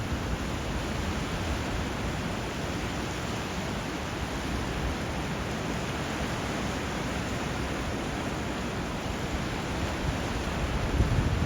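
Steady rushing water, an even hiss with no breaks. Low rumbling swells in near the end.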